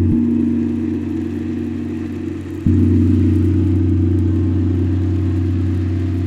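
Deep, sustained tones from a struck resonant instrument, hit once at the start and again about two and a half seconds in, each note ringing on as a steady low hum with overtones.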